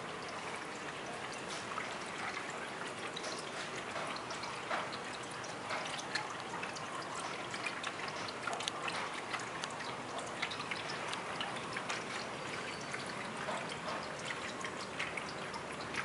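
Water trickling steadily from a tabletop sphere water fountain as it cascades over the sphere into the basin, with many small irregular drips and splashes.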